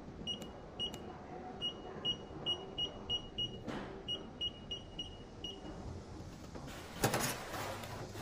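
Short electronic beeps at one high pitch, about a dozen in irregular succession, from the control-panel keys of a portable spot welder. About seven seconds in comes a loud, brief noisy burst.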